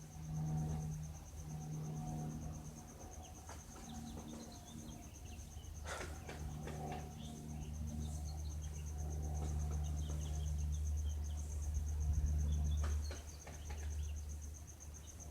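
Single-engine Cessna light plane droning overhead, its engine and propeller hum swelling to its loudest about twelve seconds in, over a steady high cricket trill.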